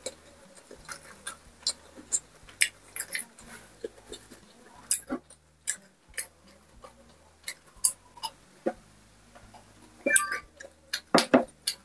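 Close-miked eating sounds: chewing crispy pork belly with scattered crunches and mouth clicks, then sipping and swallowing a drink from a glass mug in the second half, with a cluster of clicks and gulps near the end.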